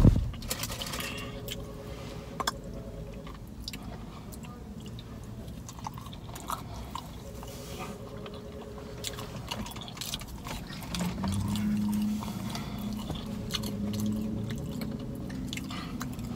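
A person chewing and eating fried chicken wings up close, with small smacking and clicking mouth sounds. A low hum comes in about eleven seconds in.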